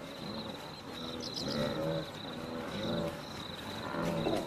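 A wildebeest herd grunting and moaning, many short low calls overlapping at about two a second. A steady high insect trill runs beneath them, and a bird chirps briefly about a second in.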